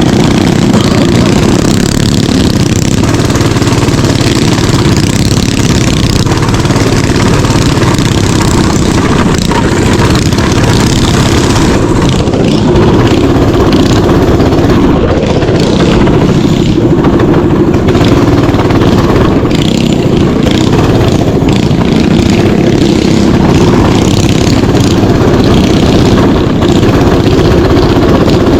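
Mini bike engine running steadily and loudly under way on a dirt trail.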